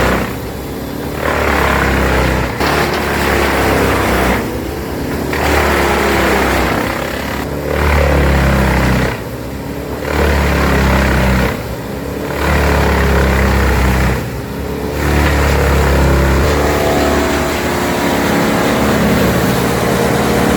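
Bandit 21XP wood chipper running hard on its Cummins diesel engine while chipping hardwood eucalyptus. The chipping noise surges and eases every two to three seconds as pieces are fed through, over a steady engine hum.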